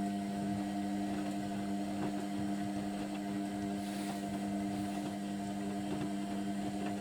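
Indesit washing machine running in its main wash, giving off a steady electrical hum with a few fixed tones over a softer churning noise; the hum drops away at the very end.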